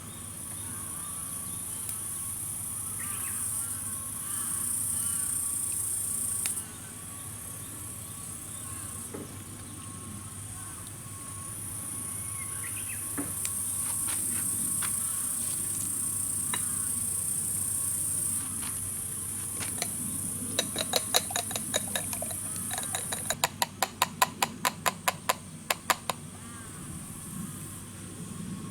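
A high-pitched chorus of insects chirping that swells and fades, cutting off abruptly in places. About twenty seconds in comes a quick run of sharp clicks, several a second.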